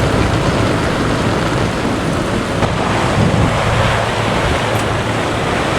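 Strong storm wind blowing hard into the microphone, a loud, dense rush of noise.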